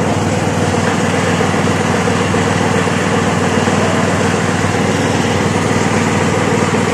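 A small engine running steadily at constant speed, with an even hum.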